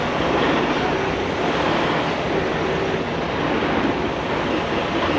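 High-pressure water spray washing down a semi truck: a steady hiss of spray.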